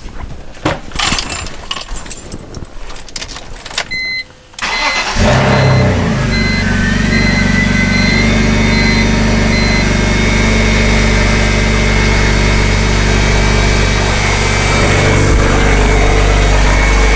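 A few clicks and knocks, then the 2002 BMW 325i's inline-six cranks briefly and starts about five seconds in, settling to a loud idle through an exhaust with no muffler, while a warning chime beeps repeatedly for several seconds. A steady high whine comes in just after the start: the secondary air injection pump, which runs on startup for emissions, making a racket that the owner takes to mean the pump is on its way out.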